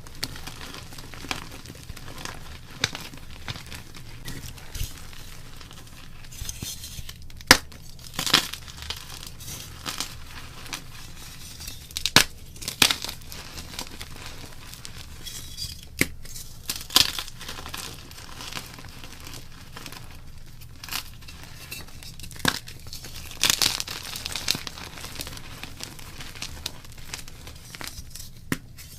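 Block gym chalk being crushed and broken by hand: crumbly crunches and sharp snaps come at irregular moments, some in quick clusters, with softer crumbling between.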